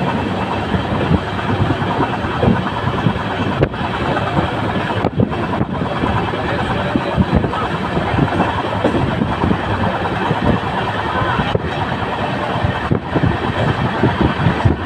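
Running noise of a moving express passenger train, heard inside the coach at an open barred window: wheels rolling on the rails, a steady noise broken by many small irregular knocks.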